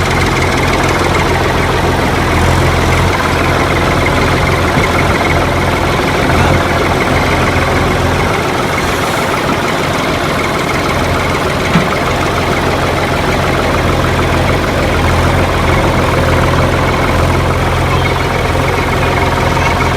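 Diesel engine idling steadily with a knocking chug, with a single short click about twelve seconds in.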